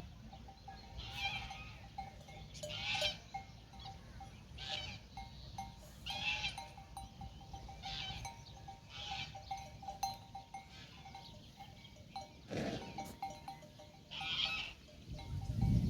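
Bells on livestock clanking irregularly, a short clang every second or two.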